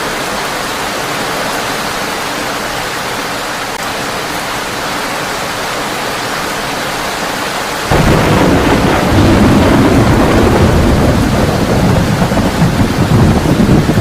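Heavy rain drumming steadily on a tin roof; about eight seconds in, a loud, low thunder rumble sets in suddenly and keeps rolling under the rain.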